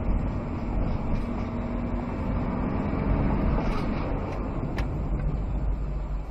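Vehicle driving, with a steady low engine and road rumble, a faint hum through the first half, and a single click near the end.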